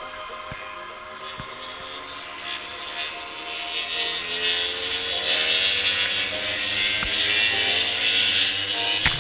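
Motorcycle engine running, rising slowly in pitch and growing louder, with a rushing noise that swells over the last few seconds. A short knock comes near the end.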